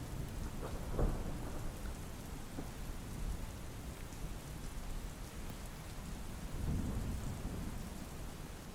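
Steady rain with low rolling thunder, a sharp louder clap about a second in and another swell of rumble around seven seconds in.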